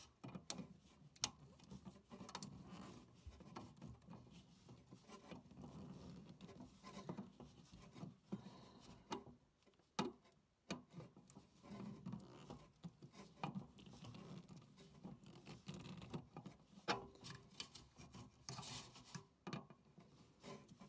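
Screwdriver tightening a pipe clamp around a flexible vent duct: faint, irregular small clicks, scrapes and rustles.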